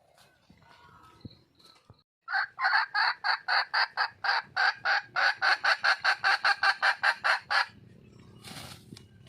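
Junglefowl hen calling for a mate: a rapid run of loud clucks, about four to five a second and quickening a little, starting about two seconds in and lasting some five seconds.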